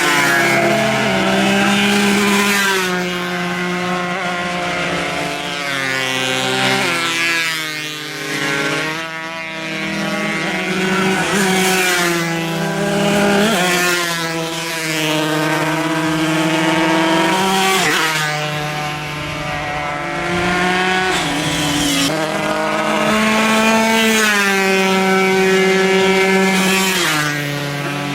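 Several 140 cc two-stroke racing motorcycle engines at high revs, each rising in pitch through a gear and dropping sharply at each shift, overlapping one another.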